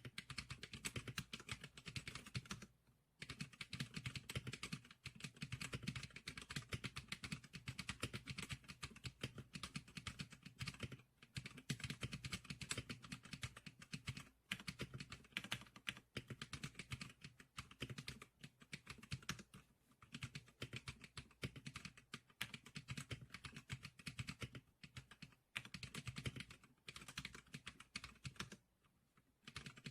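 Continuous fast typing on a Zlickr SPK100 keyboard: a dense run of key clicks, broken by short pauses about three seconds in and near the end.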